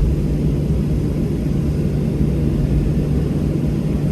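Steady low rumble with a constant hum inside the cabin of a Boeing 737-700 on the ground after landing.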